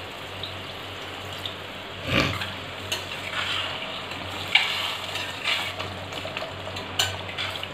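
Masala and boiled potatoes sizzling in a hot steel pot as water is poured in for the gravy, with a knock about two seconds in; then a steel ladle stirring and scraping against the pot.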